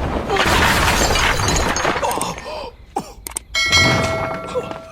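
Fight-scene sound effects: a long crash of breaking and shattering, then a few clicks and a sharp hit about three and a half seconds in that leaves a metallic ring fading over a second.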